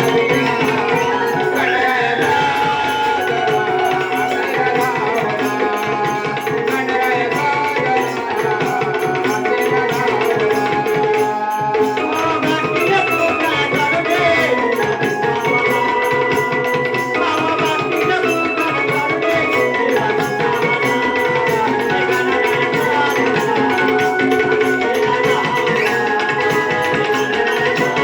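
Live Konkani Naman folk music: a male singer performing a gan, an invocation song, over a steady hand-drum rhythm and sustained instrumental tones.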